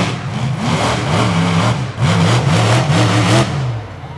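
Monster truck engine revved up and down over and over, its pitch rising and falling in quick succession.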